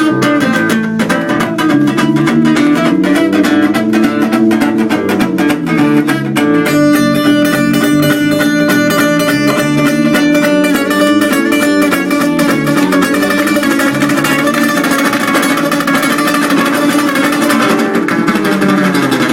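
Instrumental guitar music: fast, even plucking and strumming over a held low note, growing busier about six seconds in, with no singing.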